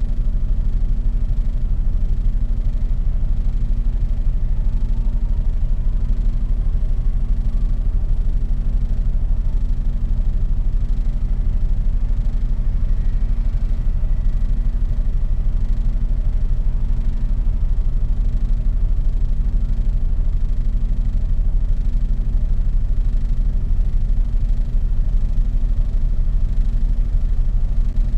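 Mercedes-Benz Actros truck's diesel engine and road rumble heard from the cab, a steady low drone that holds even throughout.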